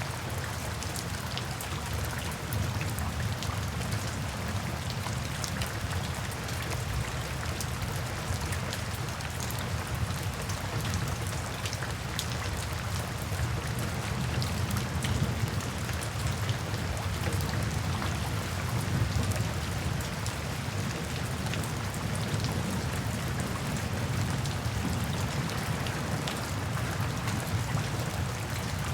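Steady rain falling, with many separate drops ticking on surfaces over a low, even rumble.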